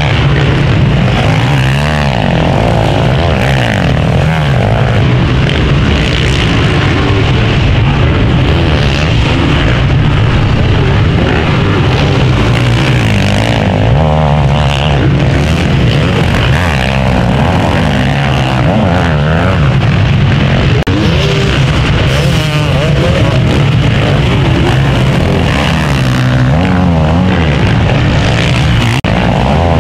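Several motocross motorcycles racing, their engines revving up and down over one another as they accelerate and shift.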